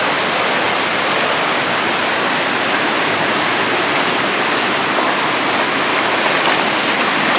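Small waterfall pouring into a pool: a steady, unbroken rush of falling water.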